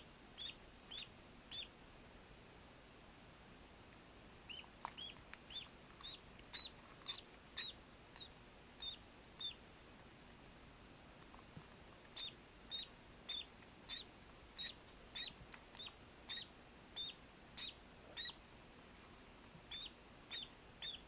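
Newly hatched duckling peeping: a run of short, high peeps at roughly two a second, with a pause of a couple of seconds midway.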